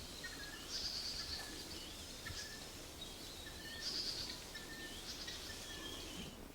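Wild birds calling over a faint outdoor background hiss. A high, rough call comes about a second in and again about four seconds in, with shorter, thinner notes between.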